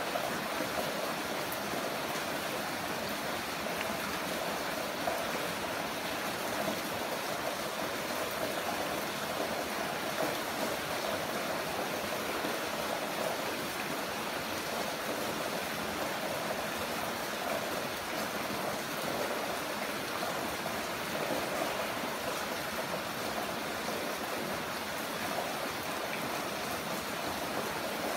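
Heavy rain falling steadily, an even wash of water noise with no breaks.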